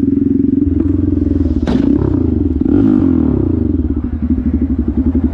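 Motorcycle engine running with a fast, even pulse, heard close to the bike, with one short sharp click about a second and a half in.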